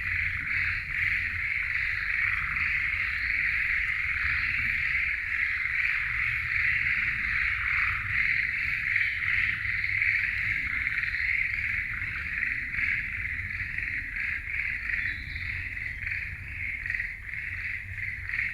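A chorus of many frogs calling together in a dense, steady trill, over a low steady rumble.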